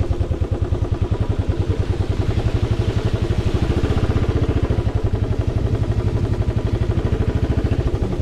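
Royal Enfield motorcycle engine running under way at steady revs, its exhaust giving a rapid, even thump.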